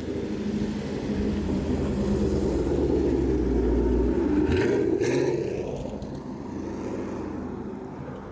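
Exhaust of a Dodge Charger Scat Pack's 392 HEMI V8 through a Corsa full exhaust system, running under throttle. It grows louder over the first few seconds, drops off sharply about halfway through with two brief sharp cracks, then fades.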